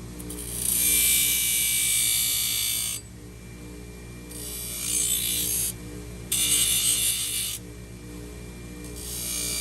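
A horse's hoof being dressed with an abrasive tool: scraping, hissing bursts of one to three seconds each, about four of them, each starting and stopping abruptly.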